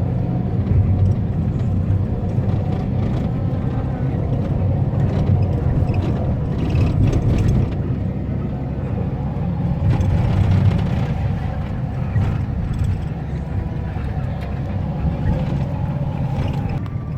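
Steady low rumble of a vehicle's engine, swelling and easing slightly in loudness.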